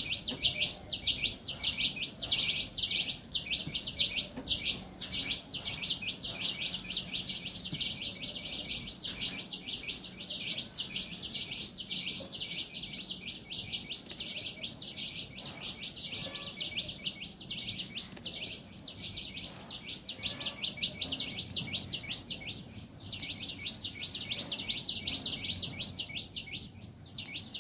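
Birds chirping in a fast, nearly unbroken run of high chirps, several a second, with a brief lull near the end.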